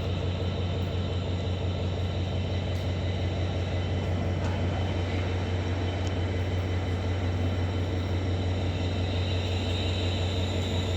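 Class 66 diesel freight locomotive idling while stopped: a steady low engine hum that does not change.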